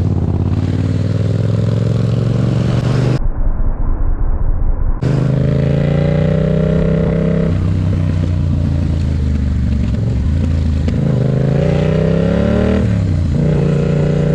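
Yamaha MT-07's parallel-twin engine under hard acceleration, its note rising through a gear, then rising again and dropping sharply at an upshift about 13 seconds in. About three seconds in the sound is muffled for nearly two seconds.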